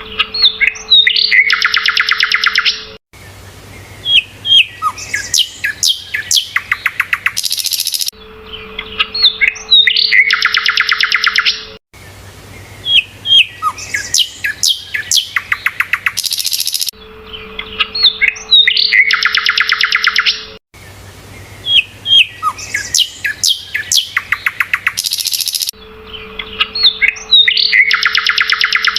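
Sikatan londo songbird singing: sharp rising chirps and a fast buzzy trill. The same song phrase comes back in an identical pattern about every nine seconds, as from a looped recording. A low steady hum returns with part of each repeat.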